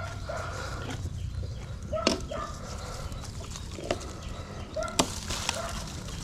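A dog barking repeatedly in short barks, with three sharp knocks about two, four and five seconds in over a steady low rumble.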